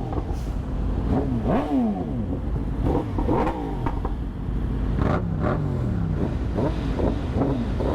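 Yamaha R1 sport bike's inline-four engine under way, its pitch rising and falling several times as it revs and shifts, over a steady low rumble of wind and road noise.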